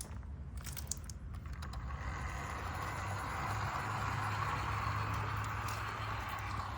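Tri-ang Hornby R251 0-6-0 model locomotive's small electric motor running and its wheels rolling on the track as it moves off, building up over the first couple of seconds and then running steadily. A few sharp clicks near the start.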